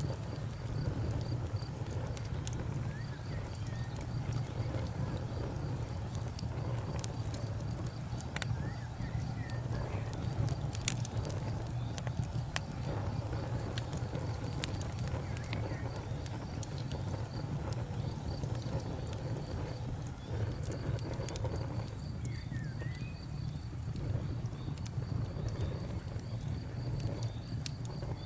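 Campfire burning: wood crackling with scattered sharp pops over a steady low rumble. A faint high chirping in a fast even rhythm sounds at the start, drops out, and comes back in the last third.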